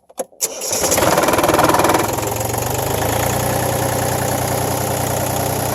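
Iseki TU180F's 23-horsepower three-cylinder diesel engine starting: a few clicks, then it cranks and catches within the first second. It runs faster for about a second, then settles into a steady idle about two seconds in.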